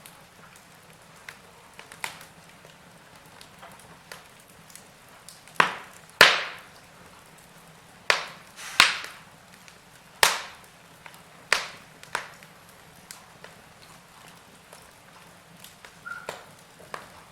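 Wood fire crackling in a fireplace: irregular sharp pops and snaps over a faint steady hiss, loudest and most frequent in the middle stretch.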